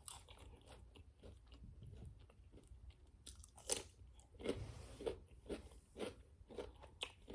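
Close-miked chewing: quiet mouth sounds at first, then a series of sharp crunches from about three seconds in as crunchy food is bitten and chewed.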